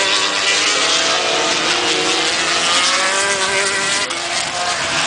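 Racing motorcycles on the track with their engines at high revs, the engine notes sliding up and down in pitch as they go by.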